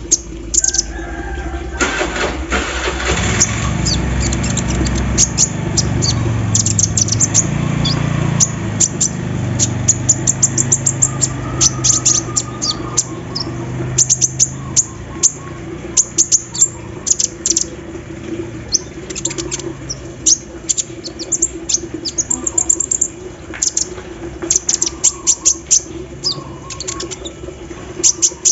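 Sunbird (kolibri ninja) singing hard: rapid strings of sharp, high chirps and ticks, with fast rattling phrases that are its mimicry of an embroidery machine. A low steady hum runs underneath.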